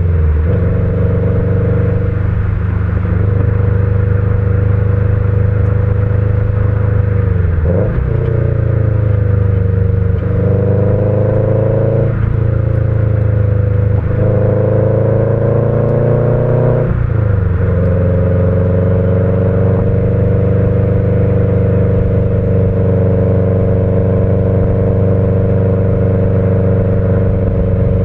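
Subaru EJ20 turbo flat-four with unequal-length headers and a Kakimoto muffler, heard from inside the car while driving. The revs climb several times, drop sharply about 8, 12 and 17 seconds in, then hold at a steady cruise.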